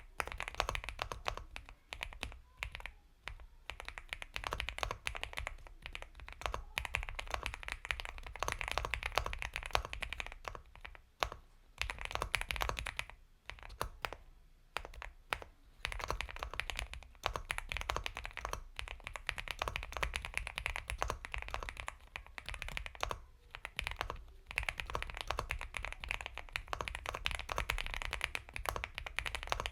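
Continuous typing on an Epomaker x Feker Galaxy 80 mechanical keyboard with Gateron Milky Yellow Pro linear switches: a rapid run of soft keystrokes, broken by short pauses a few times.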